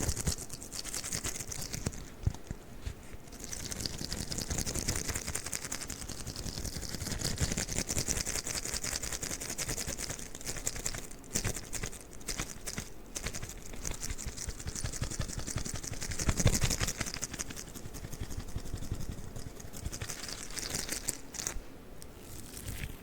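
Sticky rubber crawler toy handled close to the microphone, giving a rapid run of tiny sticky crackles and taps.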